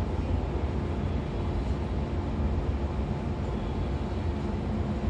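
Steady low rumble and hum inside a stationary 113-series electric train car, its onboard equipment running while it stands at the platform before departure, with a faint steady tone above the rumble.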